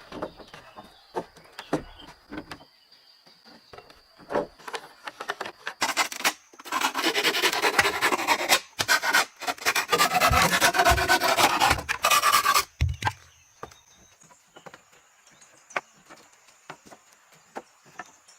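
Scattered light knocks and clicks, then about six seconds of loud, rasping strokes of a hand tool working wood, with a brief pause partway through, before the light clicks return.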